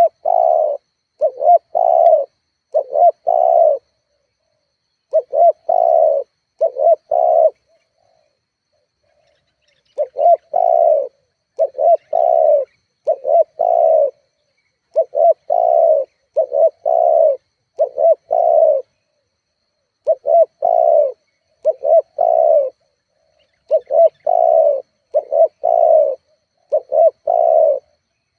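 Spotted dove (tekukur) cooing over and over in short phrases of two or three low, mellow notes. There is a pause of about two seconds roughly a third of the way through, then the phrases resume steadily.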